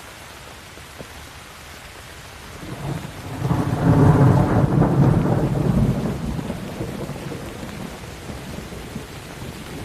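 Steady rain falling, with a roll of thunder that builds about three seconds in, rumbles loudest around four seconds and dies away over the next few seconds.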